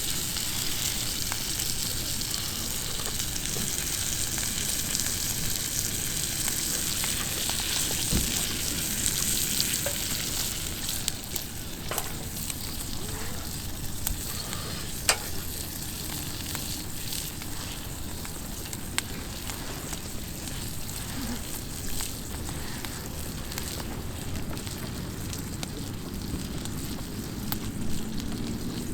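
Sizzling and hissing at a campfire, strongest for the first ten seconds or so and then easing off, with scattered sharp crackles and pops.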